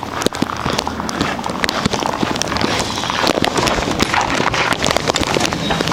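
Footsteps crunching through fresh snow, a dense run of irregular crunching clicks.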